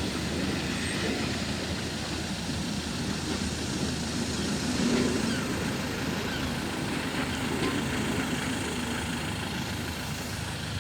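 A train running with a steady rumble.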